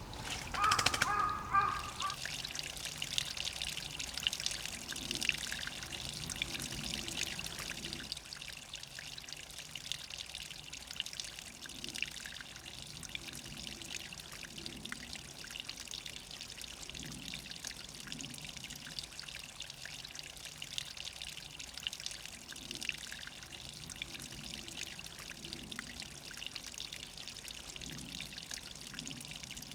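Spring water trickling and splashing steadily.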